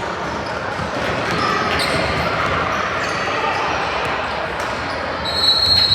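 Indoor gym game sounds: crowd and player chatter with a ball bouncing on the floor. Near the end a sharp, steady whistle blast cuts in and is the loudest sound.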